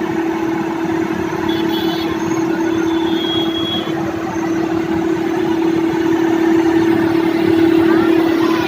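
Construction machine's engine running steadily, with a constant hum and a gradual small rise in loudness toward the end.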